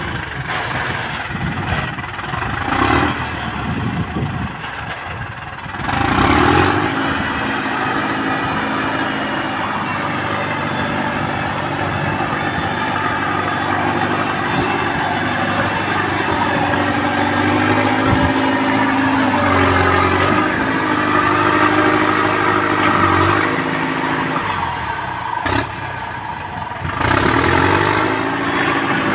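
Tractor engine running and working in soft, boggy ground, its revs shifting up and down. It gets louder about six seconds in and again near the end.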